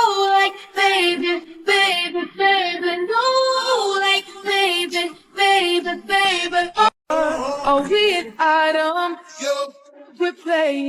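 A high-pitched voice singing a song, with little or no instrumental backing.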